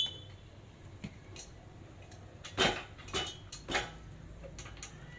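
Metal clinks and knocks from parts and tools being handled: light scattered taps, with three louder ringing knocks about half a second apart in the middle.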